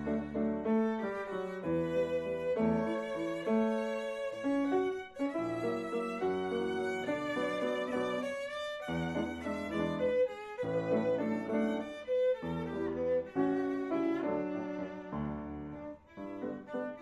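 Silent-film score: violin playing a melody with vibrato over lower strings and piano chords.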